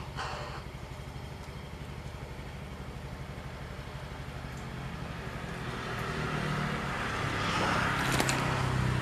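A motor vehicle's engine running with an even low throb, getting louder from about six seconds in as it comes closer.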